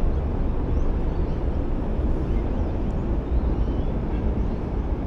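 Steady low rumble of road traffic crossing the Narrows Bridge overhead.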